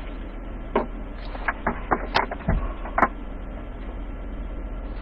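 Two-way fire radio heard between transmissions: steady hiss with a low hum, and a string of short clicks and pops in the first three seconds.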